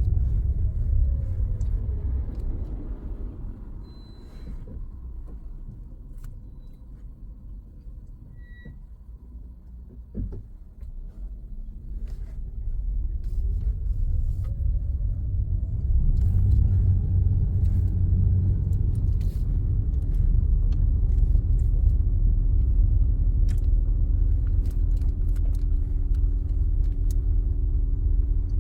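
Car engine and road rumble heard from inside the car. The engine note falls and the sound drops for several seconds as the car slows, with a single knock about ten seconds in. From about twelve seconds in the engine rises in pitch as the car pulls away and accelerates, then settles into a steady cruising hum.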